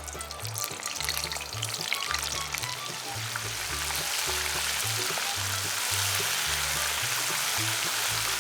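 Flour-dredged chicken pieces frying in 300 °F oil in a stainless steel casserole: a dense sizzle that builds over the first few seconds, then holds steady. Background music with a repeating bass line runs underneath.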